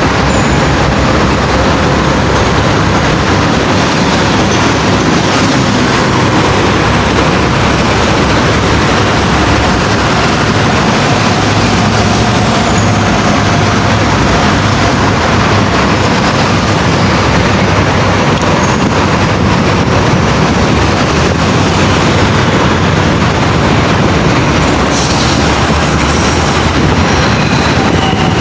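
Steady, loud rumble of road traffic with heavy trucks running.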